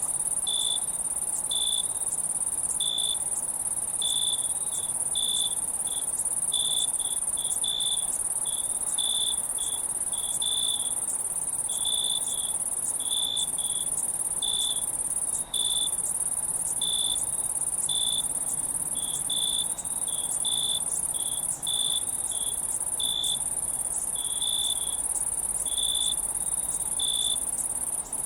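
Insects, crickets among them: a steady high-pitched insect drone, with short cricket chirps at a lower pitch repeating irregularly about once or twice a second.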